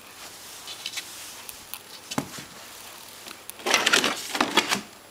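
Handling noise: a single knock about two seconds in, then a short burst of clicking and rattling near the end.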